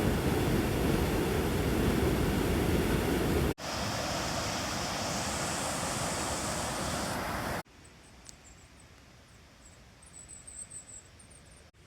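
Steady rushing of flowing water, in three short clips cut together, the first the loudest. The last, much quieter clip carries faint high chirps.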